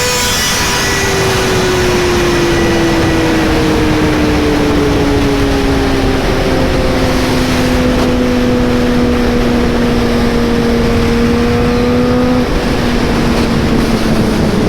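Suzuki GSX-R 600 inline-four engine running at speed, its note sinking slowly and dropping a little more about twelve seconds in, under heavy wind noise on the microphone.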